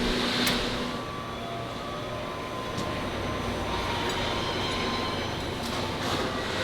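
Factory machinery running with a steady rumbling noise, a few faint squealing tones and several light clanks.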